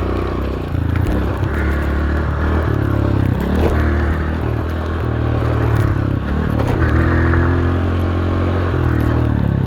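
Dirt bike engine running hard, its pitch rising and falling several times as the throttle opens and closes.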